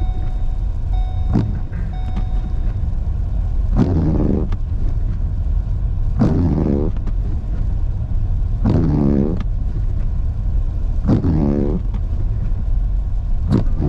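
Car cabin road rumble while driving, with the windshield wipers sweeping about every two and a half seconds: each pass starts with a click and ends in a short squeaky chatter of the rubber blade on the glass.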